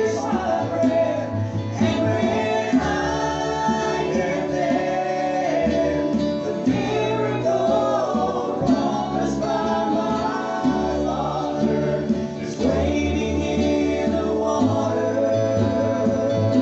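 Gospel group singing in harmony with acoustic guitar accompaniment, performed live through a PA.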